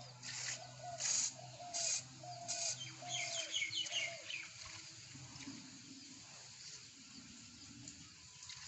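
Birds calling: a short arched call repeated about every half second, then a burst of quick high chirps about three to four seconds in. Several brief rushing noises are the loudest sounds in the first three seconds.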